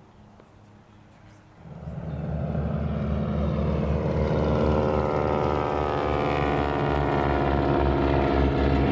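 Boeing Model 40's radial engine and propeller, coming in suddenly about a second and a half in, then running loud with a low, even throb, its pitch creeping up a little as it goes.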